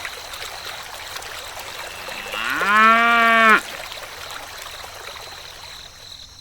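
A cow mooing once: a single call of about a second, rising briefly and then held level before cutting off, over a steady background hiss.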